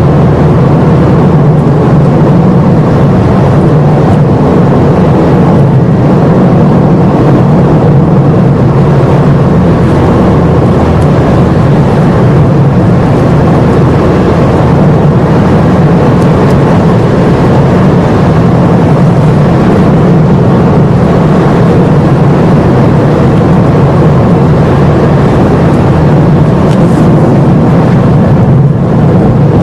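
Car driving at a steady pace, with a continuous mix of engine and road noise heard from inside the car.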